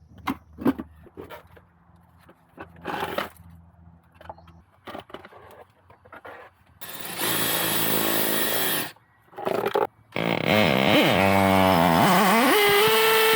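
Scattered clicks and knocks, then a small motor or power tool running: a loud two-second burst, and then from about ten seconds in its pitch wavers up and down before climbing and holding steady near the end.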